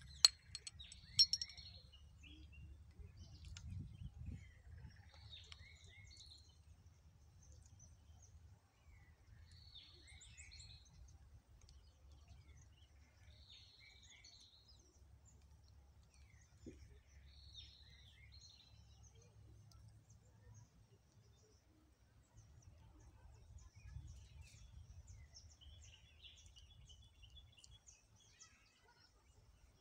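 A songbird repeating a short call phrase every few seconds, with a brief chattering call near the end, over a low steady rumble. Two sharp clicks about a second apart right at the start are the loudest sounds.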